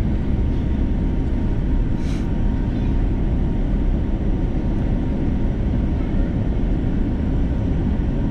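Steady rumble of engine and airflow noise inside the cabin of an Airbus A330 airliner in flight, with a brief faint click about two seconds in.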